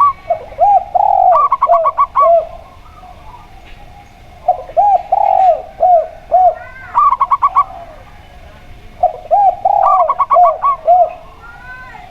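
A zebra dove and a spotted dove cooing in turn. The zebra dove gives quick runs of short, higher staccato coos. The spotted dove gives slower, lower, arched coo phrases. Each comes about three times, the phrases sometimes overlapping.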